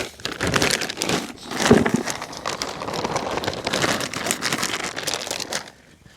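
Plastic bag of Scotts lawn soil crinkling and rustling as it is handled, with soil shifting inside; it stops shortly before the end.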